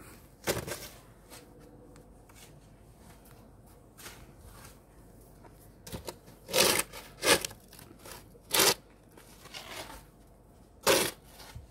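Footsteps crunching through deep snow, about half a dozen separate steps at an uneven pace.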